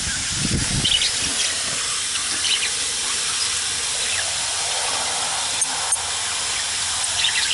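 Steady hiss of a water mister spraying a fine mist over budgies, with a few short budgie chirps over it.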